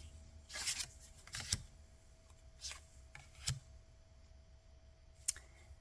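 Tarot and oracle cards being handled: a handful of brief soft slides and taps of card on card, about six spread out with quiet between, the sharpest one near the end.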